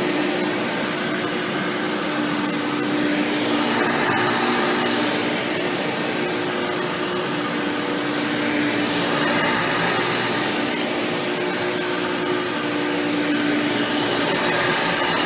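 Hoover Power Drive Supreme upright vacuum with an upgraded 20-blade impeller fan running steadily while cleaning. Its motor hum holds a steady pitch while the level swells and eases gently every few seconds.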